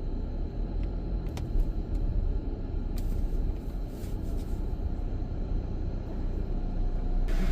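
Car engine rumbling low and steady as the car idles or creeps along, heard from inside the cabin, with a few faint clicks. A hiss rises sharply near the end.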